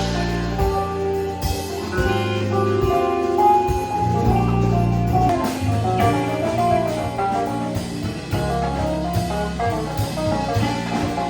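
A band playing: drum kit and guitar over a bass line of held low notes.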